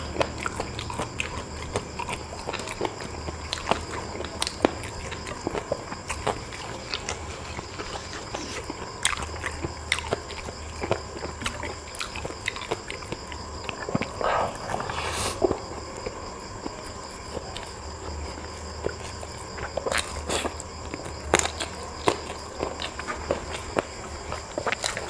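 A person eating up close to the microphone: chewing and biting food, with many short sharp mouth clicks and smacks at irregular intervals.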